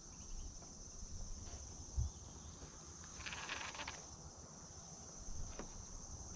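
Steady high-pitched insect trilling, with a soft low thump about two seconds in and a brief rushing noise a little after three seconds.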